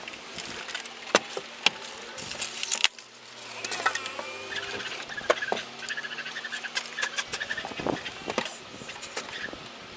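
Scattered sharp knocks and clicks of table-saw parts and packaging being handled during unboxing, with a wavering squeak through the middle few seconds.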